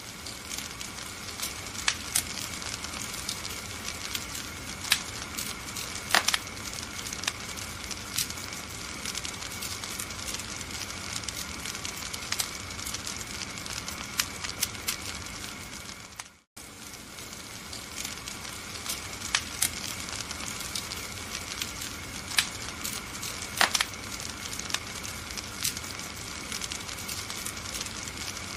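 Wood fire crackling and popping: a steady hiss with frequent sharp crackles and a few louder pops. The sound cuts out for a split second about halfway through, then resumes.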